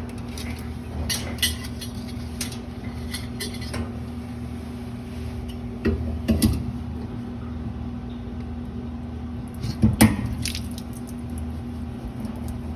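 Scattered metallic clinks and knocks of tools and copper pipe fittings being handled, over a steady background hum. Two louder knocks come about six and ten seconds in.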